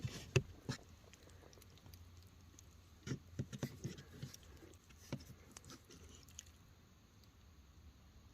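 Eating sounds: chewing, with irregular small clicks and taps, a few close together about three to four seconds in.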